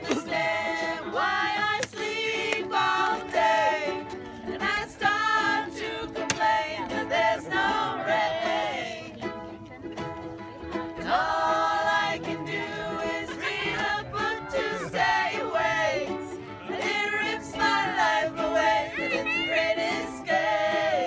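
A song sung with ukulele accompaniment: a voice singing a melody over strummed ukulele.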